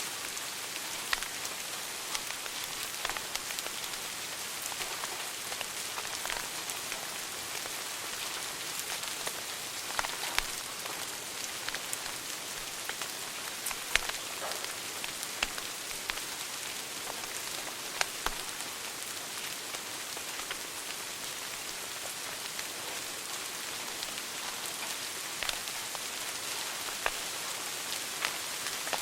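Wood fire crackling in a fireplace: a steady hiss with sharp pops and snaps at irregular moments, the loudest about 10, 14 and 18 seconds in.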